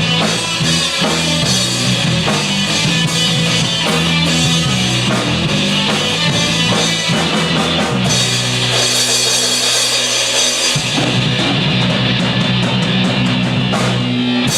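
A rock band playing live at a festival, the drum kit to the fore: steady beat with bass drum and cymbals over sustained bass notes. The music runs loud and unbroken.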